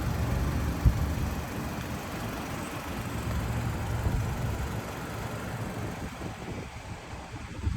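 A low, steady vehicle rumble with one short knock about a second in.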